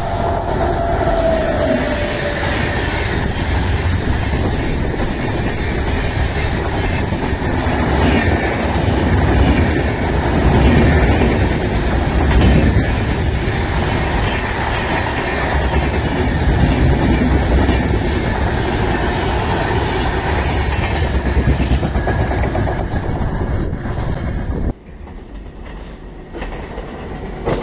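Indian Railways electric passenger train passing at speed close by. The horn sounds briefly at the start, its pitch falling, then the coaches rush past with a steady rumble and wheel clatter on the rails. The sound drops sharply about three seconds before the end.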